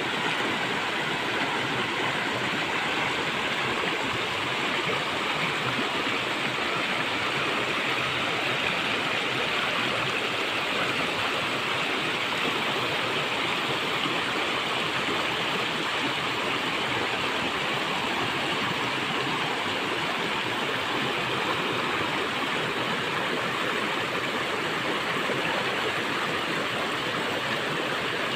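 River water rushing over rocks, a steady, unbroken rush.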